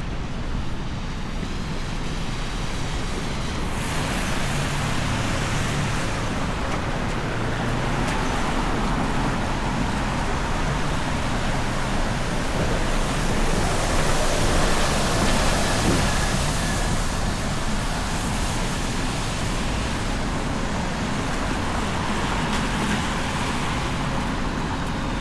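City street traffic: a steady wash of passing cars, swelling loudest about halfway through.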